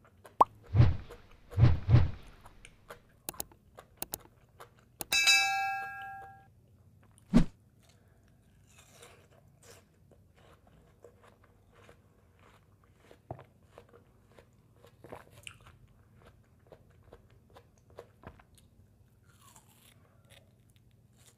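Close-miked biting and wet chewing of juicy watermelon, with two loud bites in the first two seconds, then quieter scattered chewing. About five seconds in there is a short ringing tone, and a single sharp knock follows about two seconds later.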